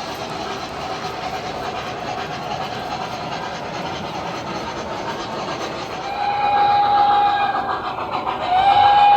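O gauge model train rolling along three-rail track with a steady rumble and wheel clatter. About six seconds in, the locomotive's onboard sound system sounds a long signal blast, then a second one starts near the end, both steady in pitch and louder than the running noise.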